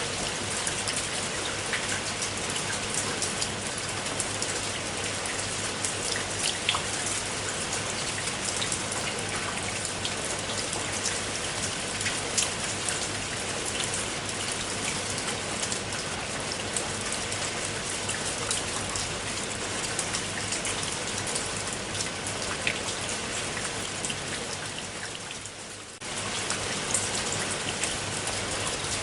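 Steady rain falling, with many individual drops ticking sharply through the hiss. Near the end the rain fades a little, then cuts back in abruptly at full level.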